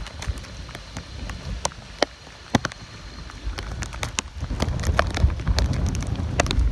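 Storm rain, with drops striking close to the microphone as sharp, irregular ticks. Wind buffeting on the microphone builds into a low rumble in the second half.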